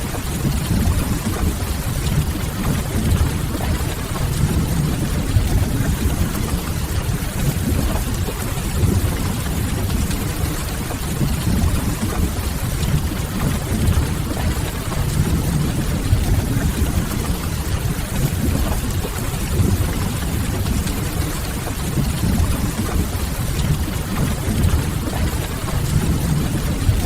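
Ambience mix of steady rain on a window and a crackling wood fire, over a deep, even low rumble.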